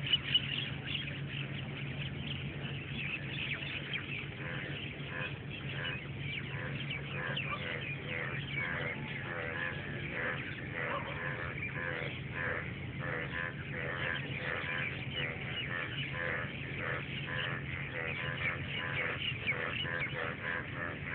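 Many birds calling and chirping in a dense, continuous chatter, over a steady low hum.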